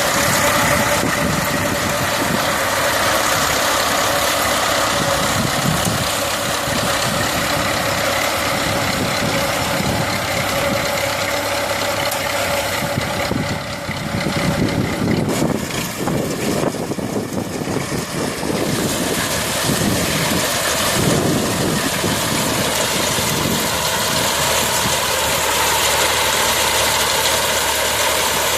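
Tractor engine running steadily, with a steady whine through the first half. Partway through it dips and turns rougher for several seconds, then evens out again.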